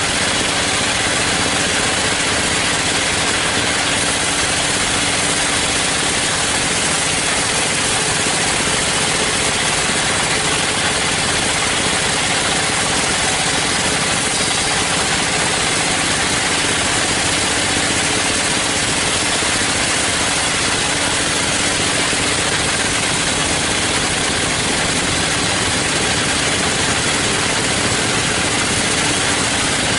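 Sawmill machinery running steadily: a loud, unchanging engine-and-saw noise with no pauses or changes.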